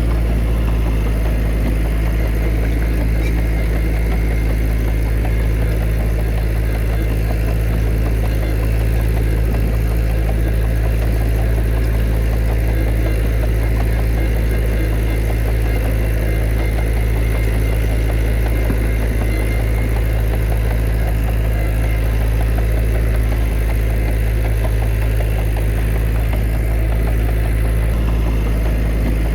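Heavy diesel engine of earth-moving machinery running steadily at an even speed, a deep constant drone with no revving or knocks.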